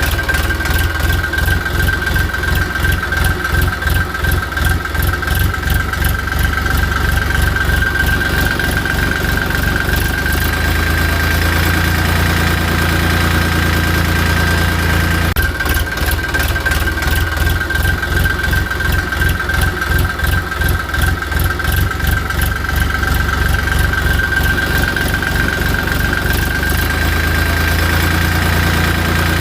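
Tractor engine running steadily at idle, with an even knocking rhythm and a steady high whine over it; the sound breaks briefly about fifteen seconds in.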